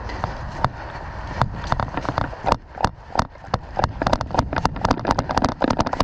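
A rapid, uneven string of sharp clicks and snaps, a few a second, coming thicker from about a second and a half in.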